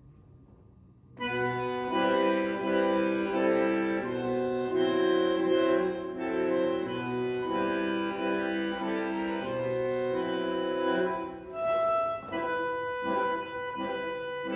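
Bandoneon playing sustained reed chords that enter about a second in, changing every second or so, then breaking into shorter, detached notes near the end.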